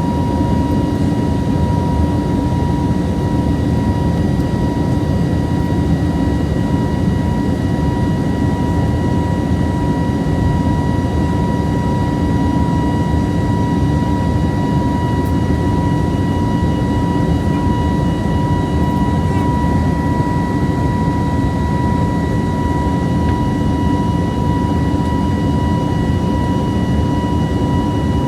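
Jet airliner cabin noise in flight: a steady low rushing drone from the engines and airflow, with a steady high whine running through it.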